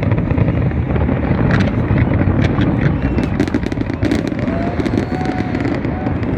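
Fireworks going off: a continuous low rumble of bursts, with a dense run of sharp crackles through the middle.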